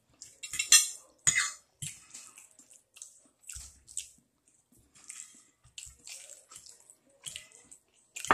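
Close-up eating sounds: wet chewing and lip-smacking on a mouthful of rice and gravy, a run of short, irregular smacks, the loudest about a second in.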